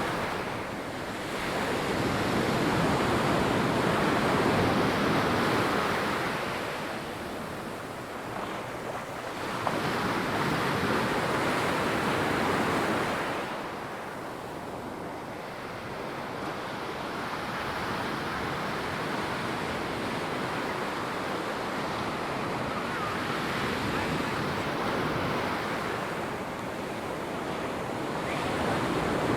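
Ocean waves breaking and washing up the sand in slow surges, each swell rising and falling over a few seconds, with some wind on the microphone.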